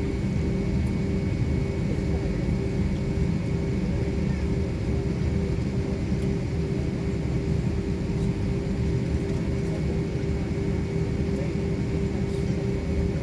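Airliner engines running, heard from inside the passenger cabin before takeoff: a steady, even drone with a constant hum in it.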